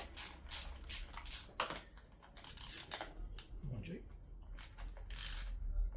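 Irregular metallic clicks and clinks of a spanner and bolts being worked on a motorcycle's handlebar fittings, several in quick succession.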